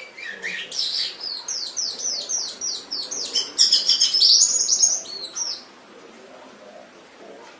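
Domestic canary singing one song phrase: a string of repeated high, downward-sliding notes, about four a second, breaking into a louder, faster trill near the middle, and stopping a little over five seconds in.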